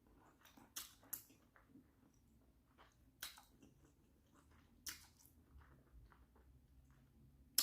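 A person chewing instant noodles close to the microphone: soft mouth noises with a few sharp, wet lip smacks a second or two apart.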